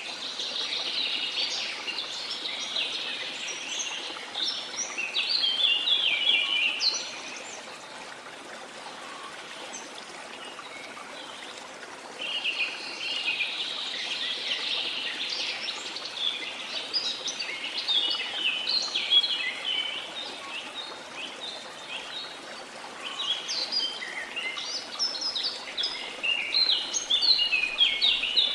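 Songbirds singing in long runs of quick chirps, one burst for the first seven seconds or so and then, after a pause of about five seconds, another lasting to the end, over a steady wash of the sea.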